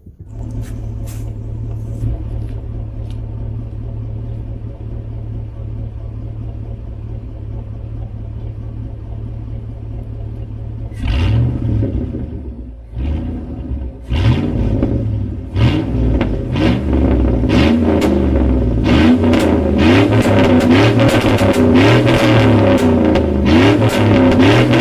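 A car engine idling steadily; from about eleven seconds in an instrumental beat with bass and guitar comes in and builds to the loudest part by the end.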